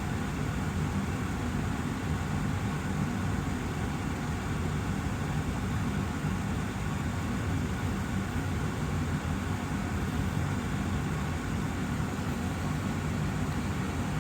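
Austin Air HealthMate air purifier's fan running steadily, an even rushing noise with a low hum.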